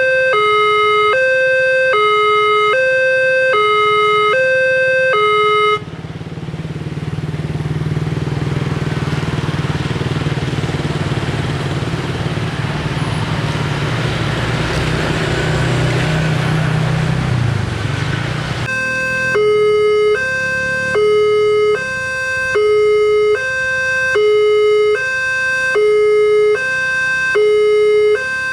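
Railway level-crossing warning alarm sounding a two-tone alternating chime, about one cycle a second; it cuts off suddenly about six seconds in. A passing train follows, a steady rumble of wheels with a low engine hum that drops in pitch near the end of the passage, and the two-tone alarm starts again a little after eighteen seconds.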